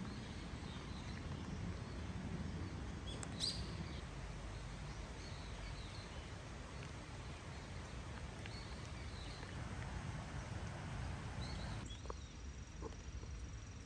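Scattered short bird chirps over a steady low outdoor background noise, with a thin steady high tone coming in near the end.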